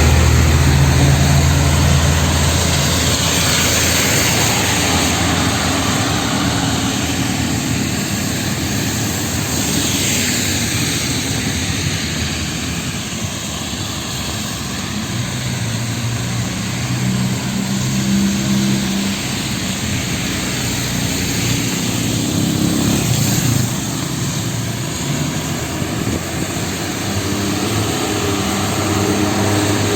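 Traffic on a rain-soaked city avenue: cars passing with tyres hissing on the wet road and engines running, over a steady wash of rain. Passing vehicles swell up about three seconds in and again around ten seconds, and low engine hum grows stronger in the second half.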